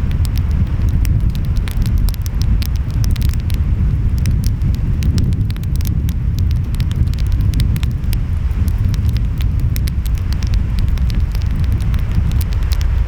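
Wood fire crackling with many small pops, over a steady low rumble of ocean waves and wind.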